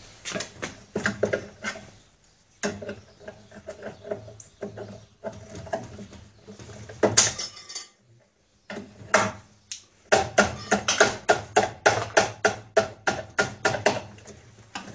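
Hand saw cutting a piece off: scattered clicks and scrapes, one sharp loud click about seven seconds in, then steady strokes at about three a second from about ten seconds in.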